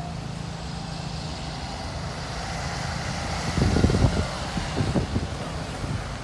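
Street traffic running steadily. A little past the middle come several loud, irregular low rumbles, typical of wind gusts buffeting the microphone.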